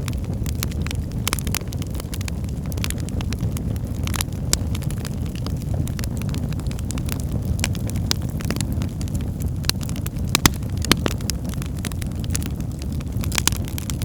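Fire burning in a fireplace: a steady low rumble of the flames with frequent sharp crackles and pops, two louder pops about three quarters of the way through.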